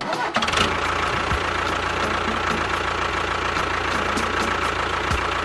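An engine running steadily, with a light, even ticking over it; it starts abruptly.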